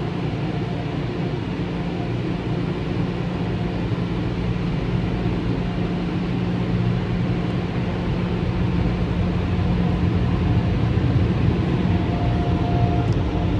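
In-bay automatic touchless car wash running: a steady rush of spray or blower noise over a constant low machine hum, slowly getting a little louder.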